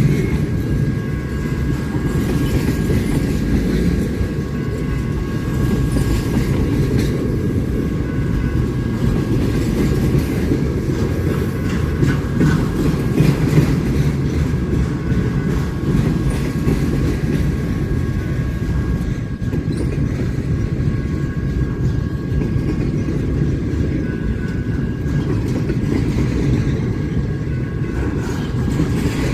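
Railroad cars rolling past: a steady rumble of steel wheels on the rail with a faint, steady high whine.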